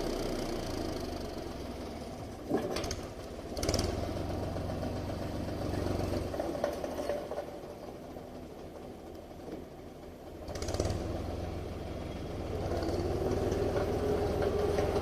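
Steyr 540 tractor's diesel engine running, its note rising and falling in level, with short sharp knocks about two and a half, four and eleven seconds in.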